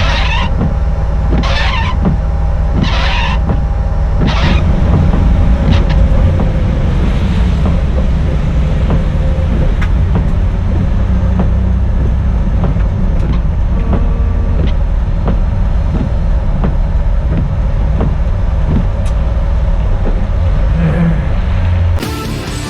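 BMW E30's M30 straight-six engine running with a steady, deep, low rumble. Brief swishing noises come about every second and a half in the first few seconds.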